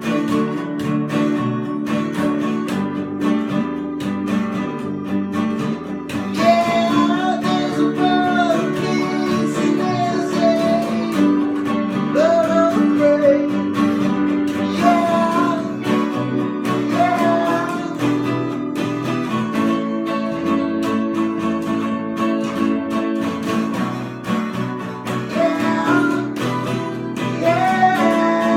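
Music: an acoustic guitar strummed steadily, with a wordless melody line of sliding, wavering notes over it from about six seconds in, returning near the end.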